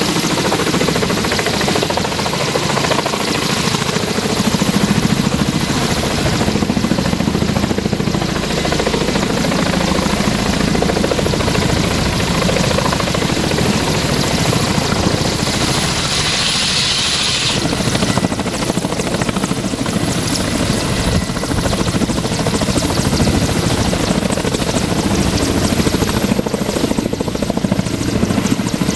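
Kamov Ka-32 helicopter running loud and steady, its coaxial rotors and twin turboshaft engines giving a continuous whine and rotor noise. A brief hissing swell comes just past halfway.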